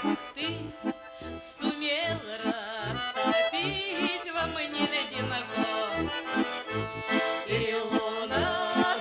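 An accordion plays a folk tune: a wavering melody over a steady bass-and-chord accompaniment.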